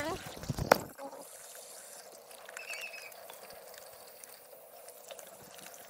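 Tap water pouring steadily over hands at a hand-washing station, after a sharp click a little under a second in.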